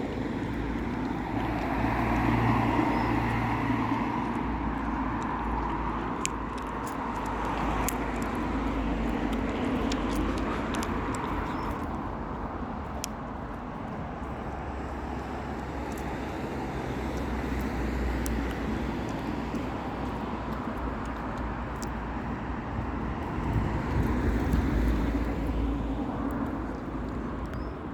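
Outdoor city ambience: a steady wash of distant road traffic with a low rumble that swells and eases several times.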